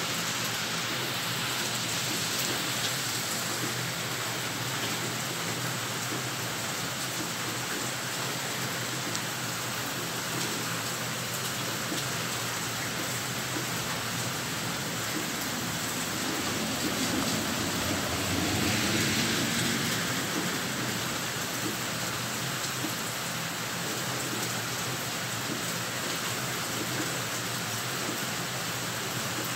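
Heavy rain falling steadily, a dense even hiss. A little past the middle it swells briefly with a low rumble.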